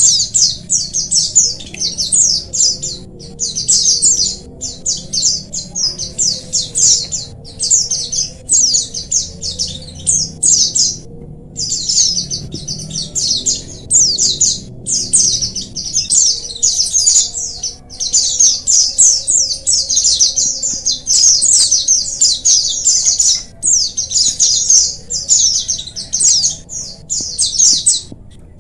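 A colony of white-eyes (pleci) chirping and singing together: a dense, high-pitched chatter of rapid twittering phrases with only brief pauses.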